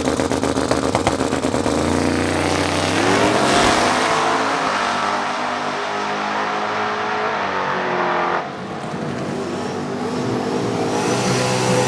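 Drag racing car engine at full throttle, accelerating hard with its pitch climbing, then dropping in level about eight seconds in.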